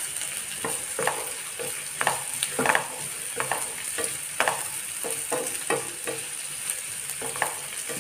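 Sliced onions, garlic, ginger and green chillies sizzling in oil and butter in a non-stick frying pan while being sautéed. A wooden spatula stirs them, with irregular scraping strokes about once or twice a second.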